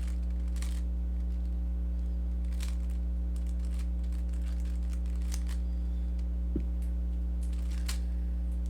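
Scattered, irregular clicks of a Rubik's cube's layers being turned, over a steady low electrical hum.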